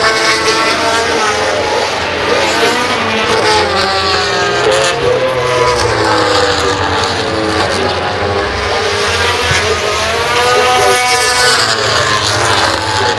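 MotoGP race bikes passing at speed, several at once, their engine notes rising and falling through gear changes. The loudest passes come about two to four seconds in and again around eleven seconds.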